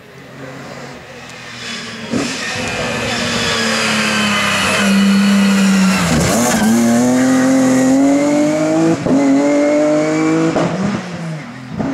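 A race car's engine at high revs, getting louder as the car approaches. The note holds steady, drops sharply about halfway through as the car slows, then climbs in pitch under acceleration, broken by quick gear changes twice near the end.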